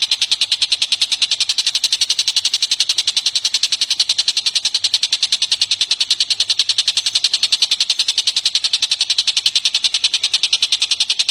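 Bird call from a songbird masteran recording: a fast, even rattle of sharp, high clicking notes, about eight a second, that runs on without a break.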